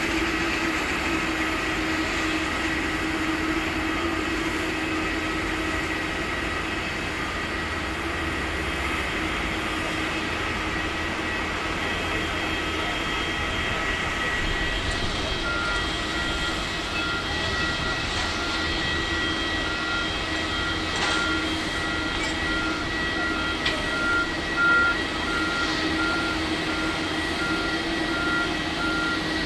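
Steady airport apron machinery noise, a hum under high whining tones, of the kind made by an aircraft under tow with its ground equipment running. From about halfway a faint, rapid, evenly spaced beeping joins in.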